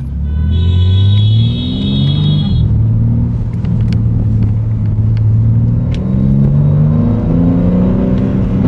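BMW G80 M3's twin-turbo straight-six engine accelerating, heard from inside the cabin. The engine note rises, drops with an upshift about two and a half seconds in, holds steady, then climbs again near the end. A steady high tone sounds for about two seconds near the start.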